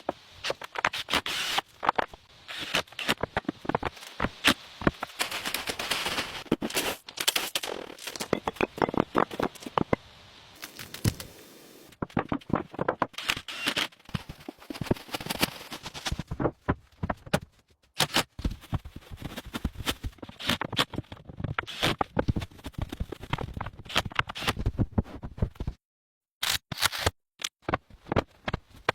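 Wood being worked by hand: irregular scraping, knocking and crackling. It is broken by a few abrupt cuts to silence.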